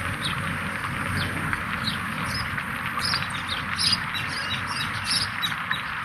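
Small birds chirping, many short high calls repeating throughout, over a steady hiss.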